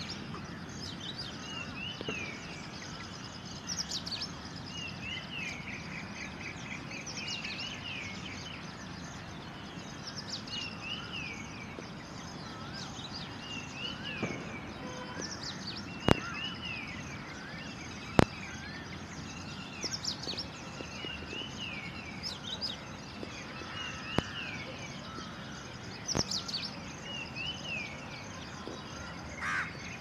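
Small birds calling over a steady background hiss: a short arched chirp repeats every couple of seconds, with higher thin notes in between. Two sharp clicks stand out past the middle.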